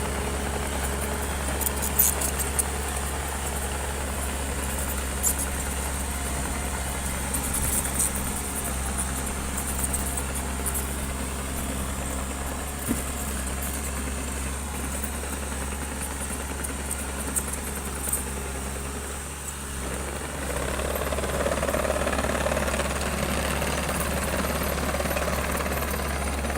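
Heavy construction machine's diesel engine running steadily, with sharp metallic clanks now and then. The engine sound briefly dips, then comes back louder and fuller for the last few seconds.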